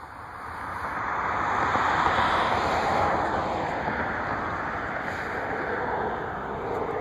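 A vehicle going by: a rushing noise swells over the first couple of seconds, then fades slowly, and a whine falls in pitch about three seconds in. A sharp click comes right at the start.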